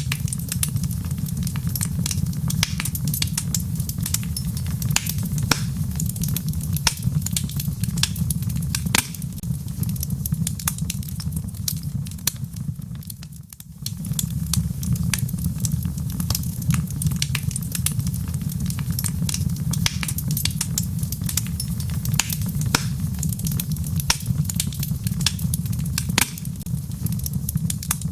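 Wood fire burning in a fireplace: dense, irregular crackles and sharp pops over a steady low rumble. The sound drops away briefly about halfway through, then comes straight back.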